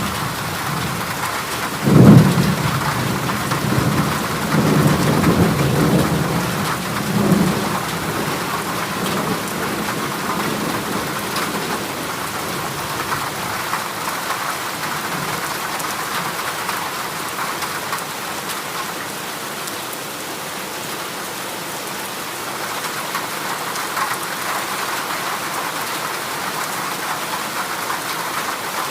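Heavy rain falling steadily on a corrugated zinc sheet roof, with a clap of thunder about two seconds in that rumbles on for several seconds.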